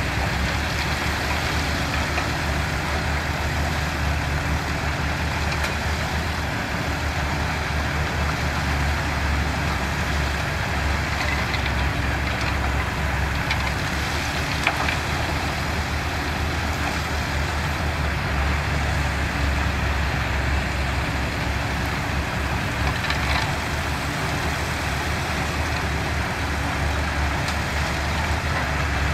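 Heavy diesel construction machinery running steadily, with one short knock about fifteen seconds in.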